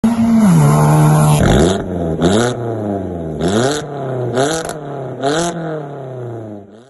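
Vauxhall Corsa SRi 1.8 four-cylinder with Piper cams and a Piper exhaust being revved: a held rev drops back, then five quick blips of the throttle, each rising sharply and falling away more slowly.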